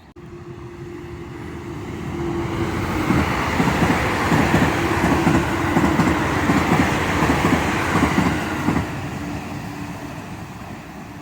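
JR Central 315 series electric train passing by. It grows louder over the first few seconds, then its wheels clatter rhythmically over rail joints for about six seconds under a steady hum, and it fades near the end.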